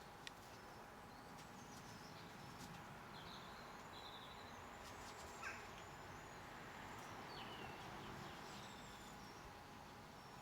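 Faint, scattered chirps and short calls of small garden birds over a steady background hiss, with one slightly louder falling call about five and a half seconds in and a sharp click just after the start.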